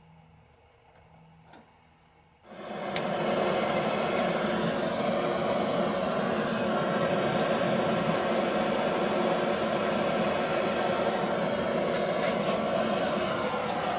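Gas blowtorch lit about two and a half seconds in, then burning with a steady loud rushing hiss as it heats a copper oil feed pipe joint for soldering.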